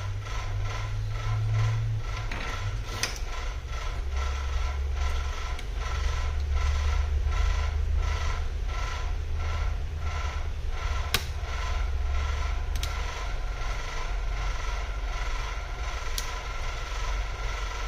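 A small machine running steadily, with a low hum and a fast, regular ticking, and a few sharp clicks over it.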